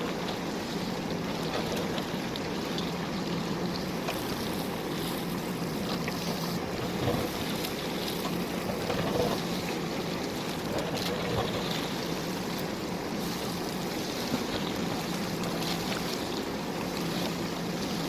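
JCB backhoe loader's diesel engine running steadily under load, with a few short knocks of the bucket working stone.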